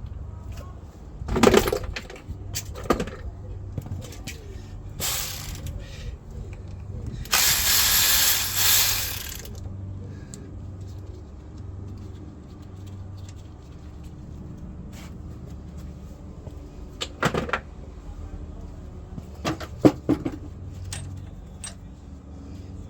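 Metal tools and engine parts clanking and knocking as an engine is stripped down, with a few sharp knocks spread through. A loud hissing rush lasts about two seconds, a third of the way in. A steady low hum runs underneath.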